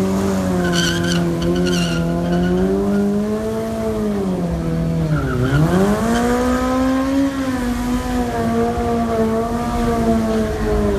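Car engine held at high revs during a burnout, with tyre squeal. The revs drop sharply about five seconds in, then climb back and hold.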